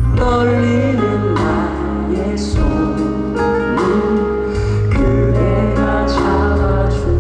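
Live pop band music: a male voice singing over bass, keyboard chords and drums with cymbal hits.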